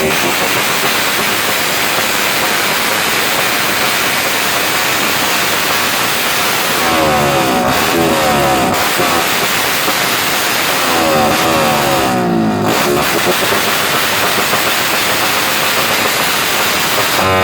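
A vehicle engine being rev-bombed, with two bursts of revving about seven and eleven seconds in, over a steady loud din of engines and crowd voices.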